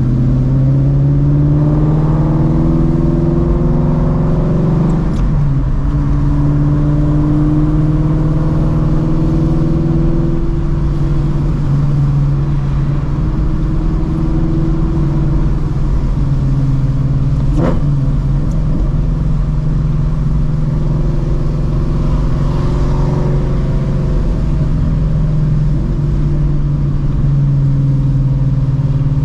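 Shelby GT350's 5.2L Voodoo flat-plane-crank V8, with long-tube headers, X-pipe and Borla cat-back exhaust, pulling at moderate throttle. Its note rises at the start, then settles and glides up and down through several changes in engine speed. A few sharp clicks come through, one about five seconds in, one past the middle and one at the end.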